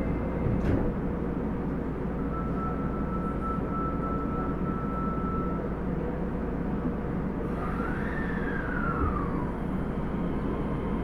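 Osaka Metro 30000 series subway train running, a steady rail rumble with a sharp knock under a second in. A steady whine holds for a few seconds, then a tone rises and falls again near the second half.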